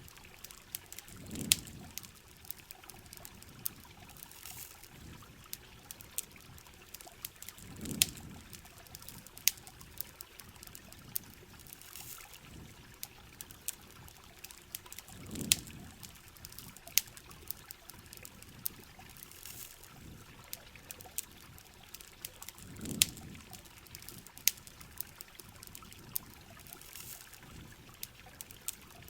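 Rain and campfire ambience: a steady hiss of trickling, dripping water scattered with sharp clicks, and a low swell that comes and goes about every seven seconds.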